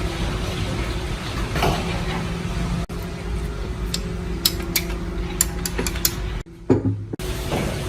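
Sharp metallic clicks and clinks of metal parts and tools being handled, several in quick succession in the middle, over a steady low hum. The sound drops out briefly about six and a half seconds in.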